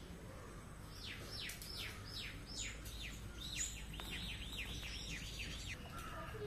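A bird singing: a series of about six falling whistled notes, then a quicker run of short, arched notes.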